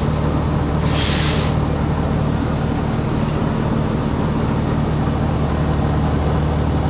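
The diesel engine of a 2020 New Flyer XD60 articulated bus running steadily, with a short hiss of compressed air from the bus's air system about a second in.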